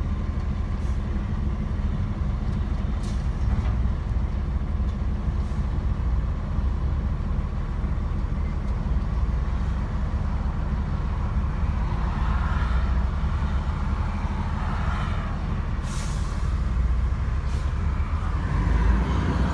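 Truck engine running with a steady low rumble, with a few brief sharp clicks or hisses, the plainest about sixteen seconds in.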